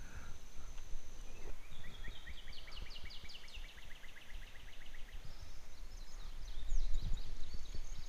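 A bird singing a long trill of short, quick chirps, about four or five a second, that slowly falls in pitch and fades after a few seconds. Thinner, higher calls follow over a low outdoor rumble.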